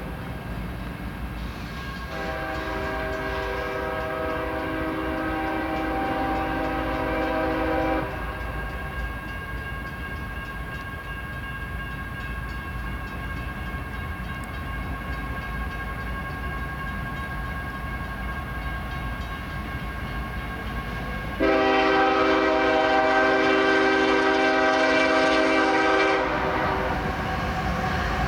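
Locomotive air horn, a second-generation Nathan Airchime K5HL five-chime, sounding a chord in a brief toot at the start, a long blast of about six seconds, then after a pause a louder blast of about five seconds, over the steady low rumble of the approaching freight train.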